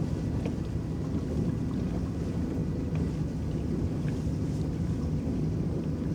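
Electric boat's paddles churning the lake water: a steady low rumbling wash with faint scattered splashes.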